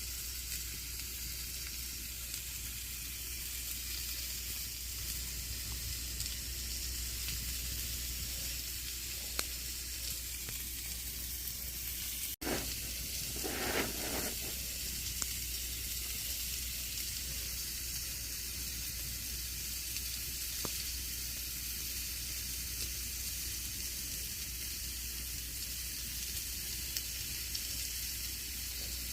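Campfire burning with a steady hiss and scattered crackles and pops. The sound drops out for an instant about twelve seconds in, and a short louder burst of crackling follows.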